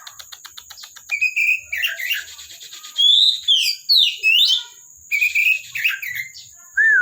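Oriental magpie-robin (kacer) singing vigorously: a quick run of clicking notes, then a string of varied whistled phrases that slide up and down in pitch.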